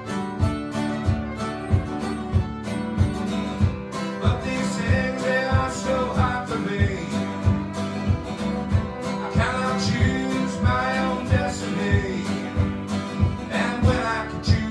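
Folk band playing an instrumental passage: strummed acoustic guitar keeping a steady beat of about two strokes a second, with a melody line over it.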